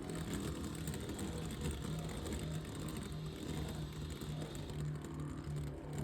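Two Beyblade X spinning tops whirring in a plastic stadium, a steady hum with a light, even rattle of the tops running on the stadium floor.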